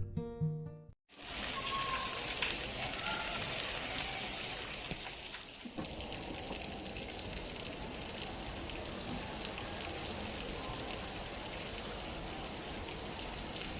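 Steady rain falling, an even hiss that starts about a second in, once acoustic guitar music has ended, with a brief break near the middle.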